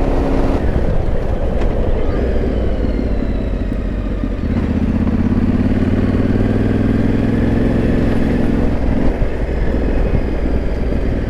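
Yamaha Ténéré 700's parallel-twin engine running as the bike rides along, easing off about three seconds in and pulling steadily again from about four and a half seconds in.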